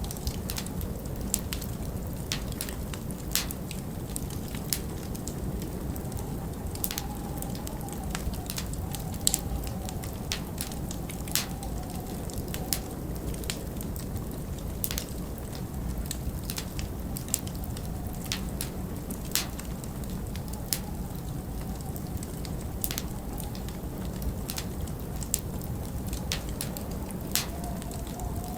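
Wood fire crackling, with irregular sharp snaps and pops several times a second, over a steady low rush of winter wind that now and then wavers into a faint howl.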